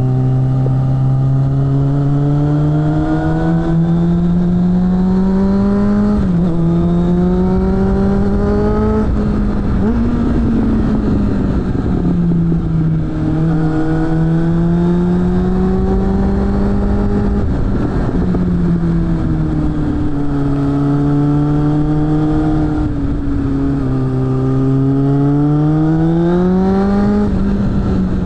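Suzuki GSF600 Bandit's inline-four running through a BOS aftermarket exhaust under way, revving up in long pulls with the pitch dropping suddenly at gear changes about 6 and 18 seconds in, and easing off between pulls before a last climb near the end.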